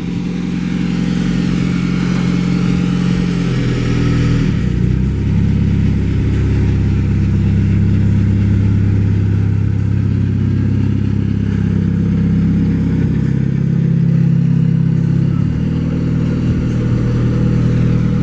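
Car engine running at low speed while the car is driven slowly, a steady low hum whose pitch shifts about four and a half seconds in and again near the end.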